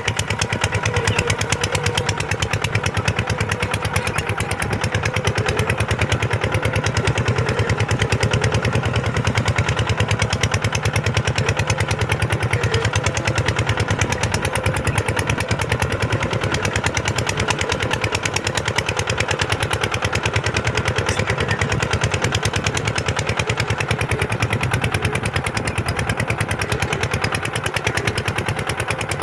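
Kubota tractor's diesel engine running steadily at an even speed, with a rapid, regular firing beat.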